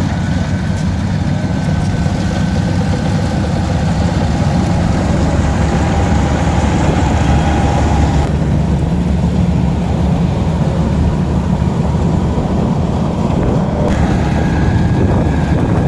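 Rice combine harvester's engine running steadily close by, with a faint steady whine above the low drone; about halfway through the higher hiss drops away.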